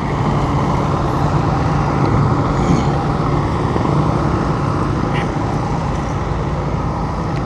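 Car engine running steadily close by with a deep rumble, getting louder over the first couple of seconds and then holding.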